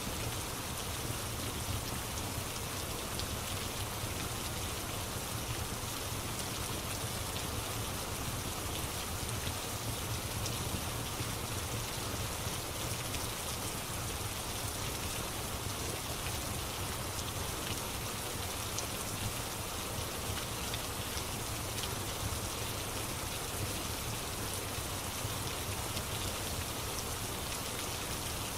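Steady rain ambience: an even hiss of rainfall with a low rumble beneath and faint scattered ticks of drops, unchanging throughout.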